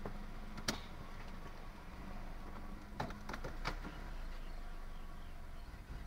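1998 Toyota Camry engine idling, which the owner calls a rough idle, with a steady low hum. There is a sharp click less than a second in, and three more about halfway through.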